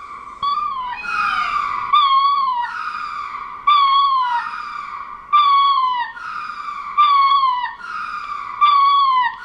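Ring-tailed lemur calling: a series of about six wailing cries, one every second and a half or so, each starting high, then falling and wavering in pitch.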